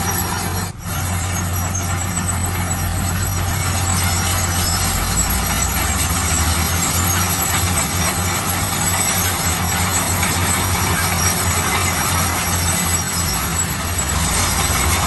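Heavy diesel construction machinery running steadily: a low engine hum under continuous mechanical noise, with a brief dip in level about a second in.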